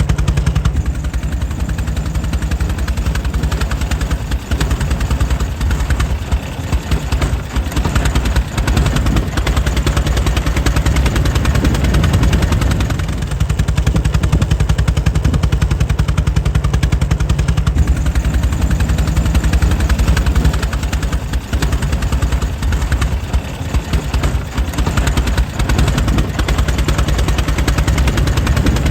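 Air-cooled 1904 Mitchell engine running steadily, a rapid, even train of firing pulses with a deep low end.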